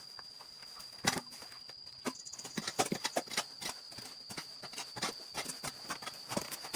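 Irregular knocks, clicks and clatter of handling or stepping on hard debris, busier from a couple of seconds in, over a steady high-pitched tone.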